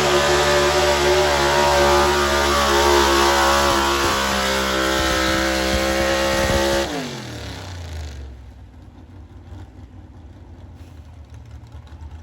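Pulling truck's engine running hard at high revs, then the throttle is cut about seven seconds in and the revs fall away over a second to a low, quieter rumble.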